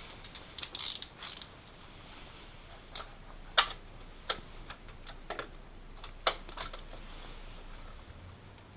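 Metal clicks and clinks of a 15 mm socket and wrench working a nut on the back of an alternator, irregular, with a quick cluster near the start and a sharp loud clink about three and a half seconds in.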